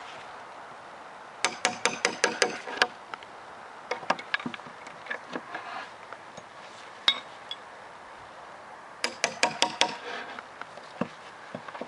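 A hammer strikes a nail puller to dig nails out of an old cedar picnic-table board. There are two quick runs of sharp, clinking metallic strikes, about six a second, starting about a second and a half in and again about nine seconds in, with scattered lighter knocks and clicks between.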